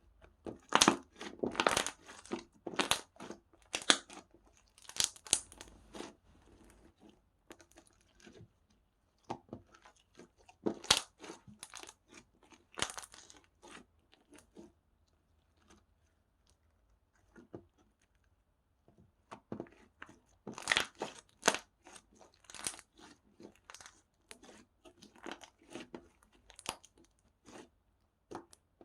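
Slime being squeezed and pressed by hand, giving irregular runs of crackling, popping clicks with short quiet pauses between handfuls.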